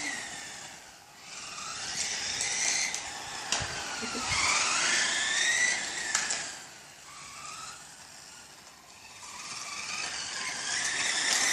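1/10-scale RC race cars' motors whining, their pitch rising and falling as the cars speed up and brake around the track, with a couple of sharp clicks. The sound fades for a few seconds past the middle and builds again near the end.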